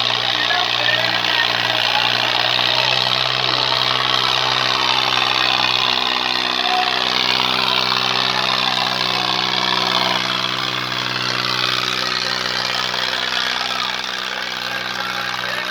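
Diesel tractor engine running steadily, with a dense hiss-like wash of higher noise over it; it gets a little quieter about two-thirds of the way through.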